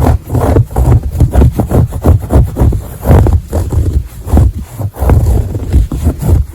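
Close-miked scratching on fabric or carpet, quick rasping strokes repeated several times a second.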